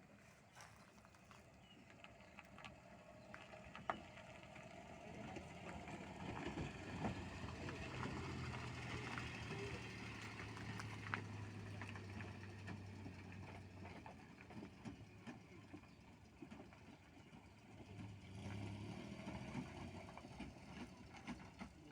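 A motor vehicle engine running, growing louder towards the middle and easing off again, with scattered light knocks and clicks.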